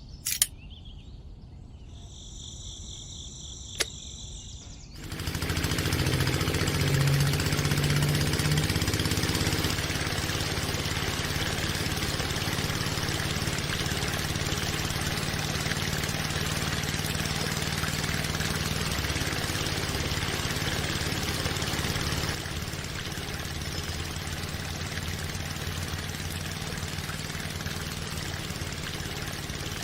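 Diesel water-pump engine starting about five seconds in, picking up speed briefly, then running steadily at idle. Before it, two sharp clicks and a high warbling tone.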